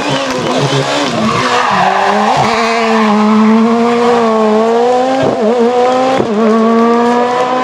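Rally car engine running hard at high revs under full throttle, its note climbing slightly and dipping briefly three times, as at gear changes.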